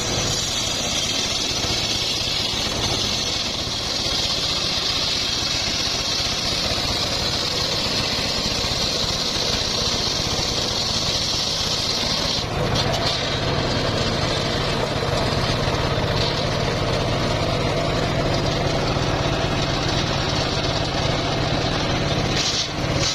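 Home-built circular sawmill running on its engine, a steady mechanical drone with a high hiss over it. About halfway through the hiss drops away and the low engine hum grows stronger.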